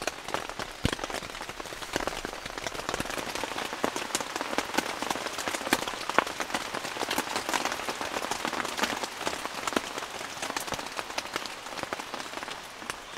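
Steady rain falling on a tent, with many sharp individual drop hits ticking through the steady hiss of the rain.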